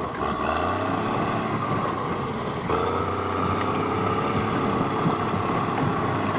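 Bulldozer's diesel engine running steadily under load, its tone shifting about two and a half seconds in.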